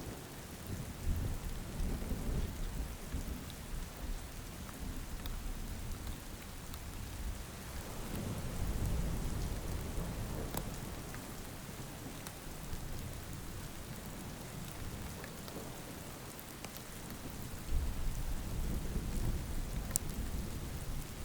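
Steady heavy rain with low thunder rumbling, swelling about a second in, again around eight seconds, and once more near the end.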